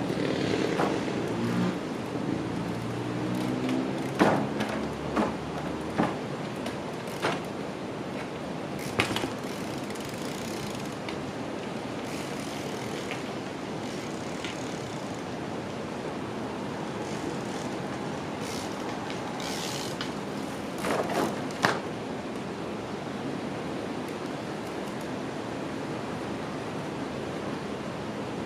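Trial bike riding: a series of sharp knocks and impacts from the bike hopping and landing, loudest a few seconds in and again about three-quarters of the way through, over steady background noise. In the first few seconds a wavering machine-like drone is also heard.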